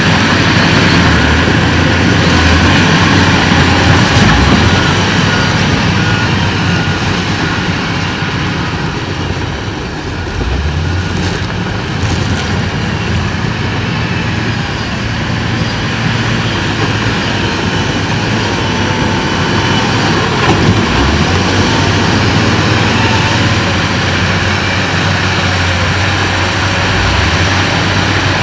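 Heavy diesel earthmoving machinery running steadily, with a low engine drone and a few brief low surges, as a bulldozer and dump trucks work rock fill.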